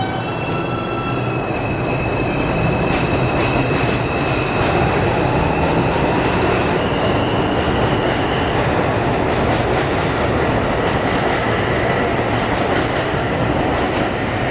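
R142 subway train accelerating out of the station: the motors whine in steady tones that step upward in pitch, and the wheels click rhythmically over the rail joints as it picks up speed.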